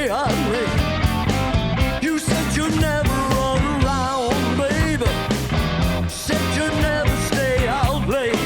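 Blues band playing live with electric guitar, bass and drums at a steady beat, and a lead line that wavers and bends in pitch.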